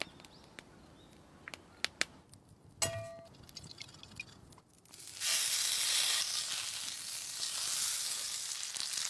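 Food starts sizzling in a hot frying pan about five seconds in, steady and hissing from then on. Before it come a few small clicks and one short metallic clink.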